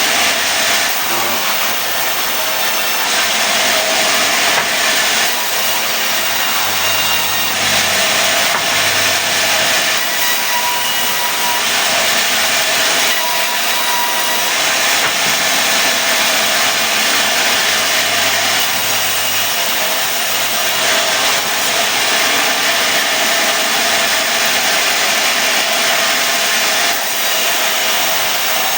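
Sawmill saw cutting a mahogany log into boards: a loud, steady, unbroken cutting noise.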